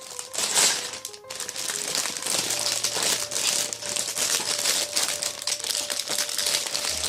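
A plastic LEGO parts bag crinkling and rustling as it is handled and torn open, over background music.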